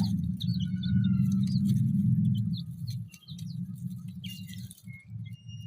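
Young chickens peeping, many short high chirps one after another, over a steady low hum.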